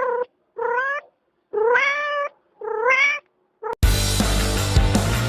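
Cat meowing loudly in drawn-out calls, three of them after the tail of an earlier one, each rising in pitch. About four seconds in, loud music cuts in abruptly.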